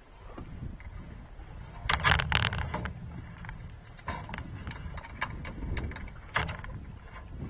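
Irregular metallic clicks and knocks of gear being handled, the loudest cluster about two seconds in, over a low rumbling noise.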